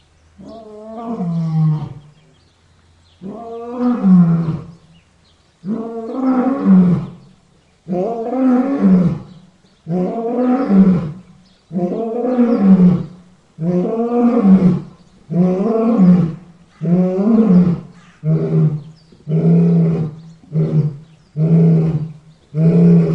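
Lion roaring, a bout of about fourteen deep calls. The first ones last about a second and a half with short pauses between, and they grow shorter and come faster toward the end, about one a second.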